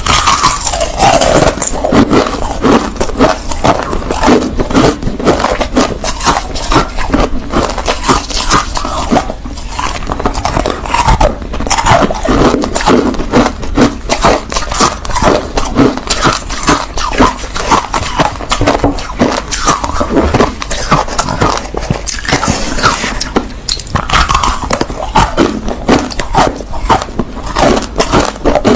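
Close-miked chewing of crushed ice: a continuous, rapid crunching and crackling of ice cracking between the teeth.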